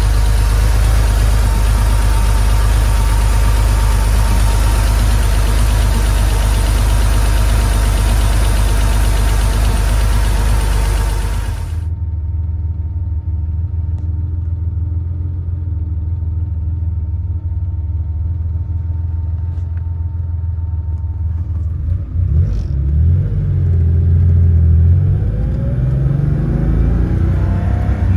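1984 Porsche 911 Carrera's air-cooled 3.2-litre flat-six idling steadily, heard first at the open engine lid, then about twelve seconds in from inside the cabin, quieter and lower. Over the last several seconds the revs rise and fall a few times.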